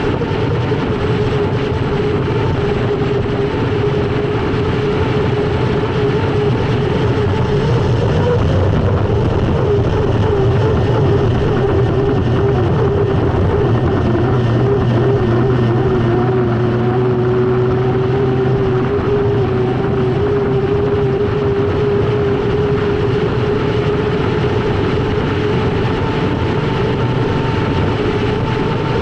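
Unlimited hydroplane's Lycoming T55 gas-turbine engine running hard at speed, heard onboard with a steady turbine whine over the rush of wind and water. The whine dips slightly in pitch a little past halfway and then holds.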